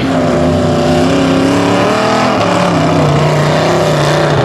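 A mud truck's engine running hard under throttle, its pitch wavering and then dropping about halfway through as the revs fall.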